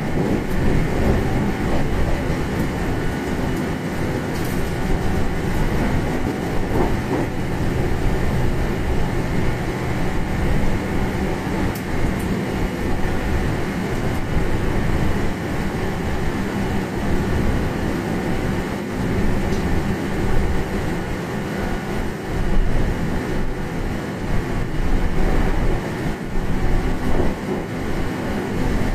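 Meitetsu 1200 series train running at high speed, near 120 km/h, heard from inside the passenger car: a steady, loud rumble of wheels on rail and car body, with a few faint clicks.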